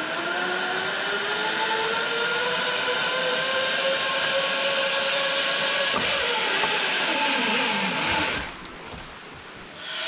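Zipline trolley pulleys running along the steel cable, a whining hum over rushing noise. The pitch rises, holds, then falls about seven seconds in; the sound drops away briefly near the end before returning.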